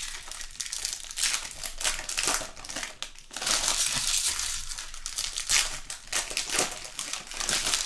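Trading-card pack wrappers crinkling and cards being handled: an irregular run of crackles and light flicks.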